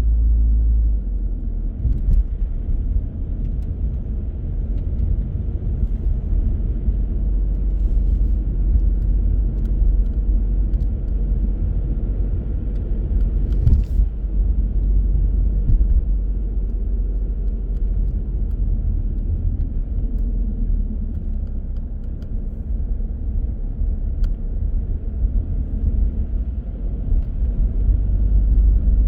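Car driving: a steady low rumble of tyres and engine, with a brief knock about halfway through, growing louder near the end.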